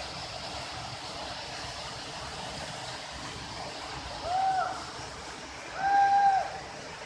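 Steady rush of flowing water, with two drawn-out hooting calls a second apart just past the middle, the second longer and louder.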